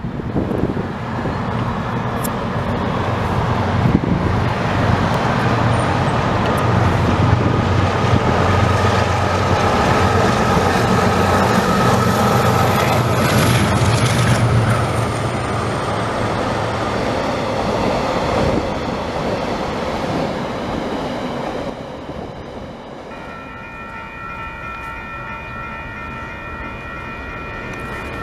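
A diesel-hauled coal train passes close by: the locomotive's engine drones low and steady while the wagons rumble and clatter over the track, with a thin falling whine partway through. After a drop in level about 22 s in, a distant diesel locomotive's horn sounds a steady multi-tone chord until the end as it approaches.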